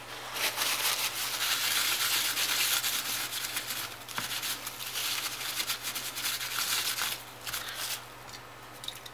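Scratchy rubbing and hissing from cleaning dried old thermal paste off a graphics card's GPU chip with oil-free contact cleaner spray. It goes on unevenly for about seven and a half seconds, then stops near the end.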